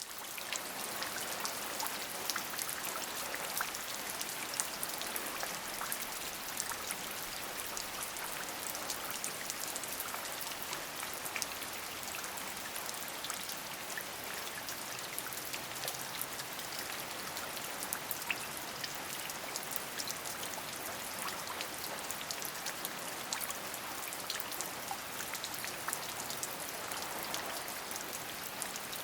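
Steady rain with individual drops pattering on a surface, an even hiss dotted with many small drop ticks.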